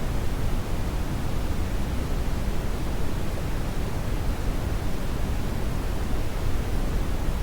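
Steady synthetic brown noise: an even, deep hiss, strongest in the low end and falling off toward the top, without change or events.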